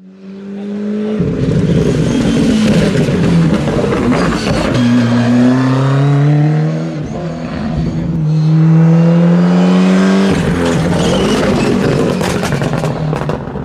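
Ford Escort Cosworth rally car's turbocharged four-cylinder engine accelerating hard through the gears. The engine note climbs in pitch, breaks off at each of several gear changes, and climbs again.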